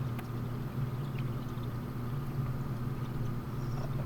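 An engine running steadily at idle: a low, even hum with no revving.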